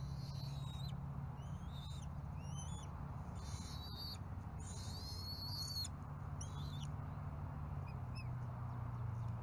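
Birds calling: a string of short, high, whistled calls with quick rising and falling glides, about one every second, over a steady low hum.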